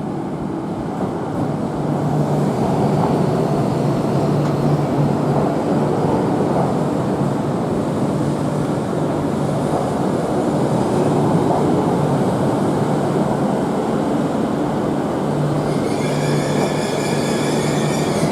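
E6 series Akita Shinkansen trainset pulling into the platform. Its running noise swells over the first couple of seconds and then holds steady over a low hum, and a high whine of several tones sets in near the end.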